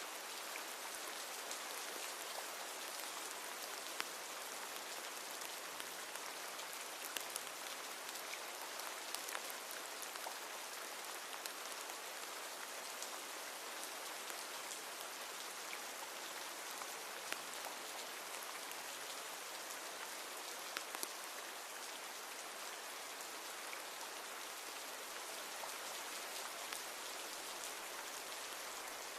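Steady rain falling, with a dense even hiss and scattered sharper drop ticks on hard surfaces.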